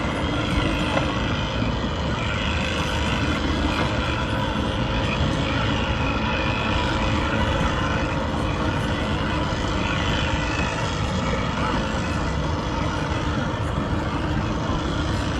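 Steady drone of engines running, unbroken throughout.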